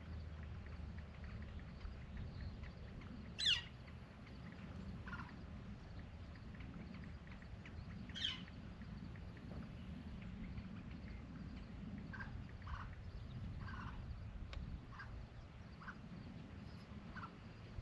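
Two short bird calls that sweep sharply downward in pitch, about five seconds apart, with fainter short chirps later. Under them runs a steady low rumble of wind.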